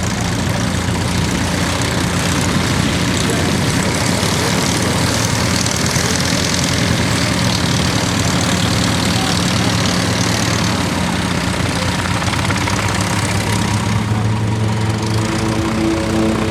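Light propeller airplane's piston engine and propeller running steadily, with a loud rushing noise. Near the end a new set of higher tones comes in as the engine note changes.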